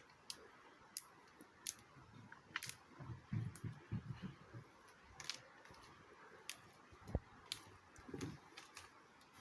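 Irregular sharp clicks and snaps, roughly one a second, with a few soft low rustling thuds between them: kindling being handled to start a campfire.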